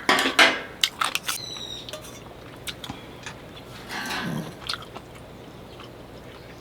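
A person chewing food close to the microphone, with a cluster of crunchy sounds in the first second and a half.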